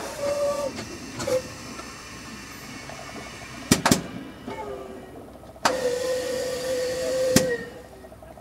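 Starting system of the Ka-26's radial engine: a series of clicks, each followed by a short steady whine with hiss. The longest lasts nearly two seconds and ends with a sharp click. The engine does not catch; the stubborn start is put down to fouled spark plugs.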